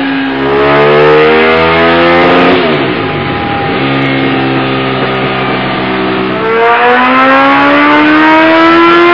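Large sportbike engines on a chassis dyno: a full-throttle pull climbing steadily in pitch, then winding down about three seconds in. The engine then holds a steady speed for a few seconds before a second pull climbs again near the end.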